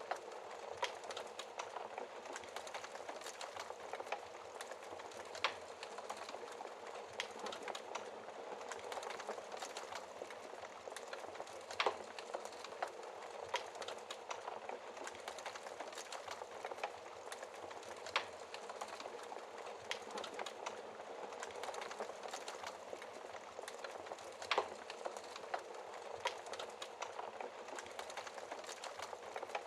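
Wood fire crackling in a fireplace: a steady hiss of burning, thick with small snaps and ticks, with a few louder, sharper pops every several seconds.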